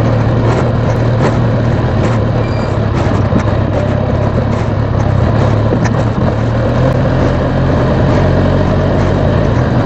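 Motorcycle being ridden on a snowy road, its engine running at a steady low hum under an even rushing noise.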